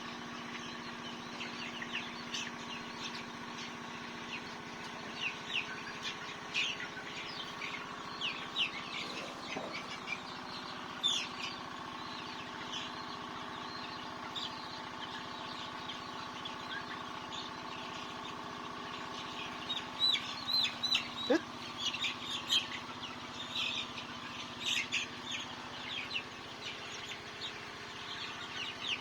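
A group of chickens calling in many short, high, falling peeps, busiest and loudest about two-thirds of the way in, over a steady hum.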